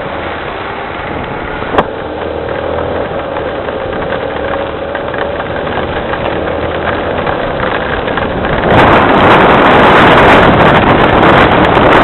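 Rain falling steadily, with a faint low hum underneath and one sharp click about two seconds in. Near the end the noise suddenly jumps much louder, a harsh rushing that carries on.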